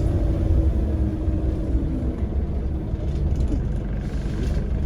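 Scania CN94UA bus engine and running gear, a steady low rumble with a faint constant hum, heard from inside the bus.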